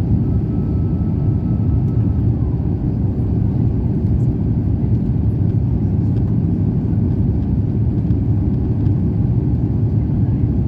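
Steady, loud cabin rumble of an Airbus A350-900 in flight or on its takeoff run, from its Rolls-Royce Trent XWB engines and the airflow, heard from inside the cabin.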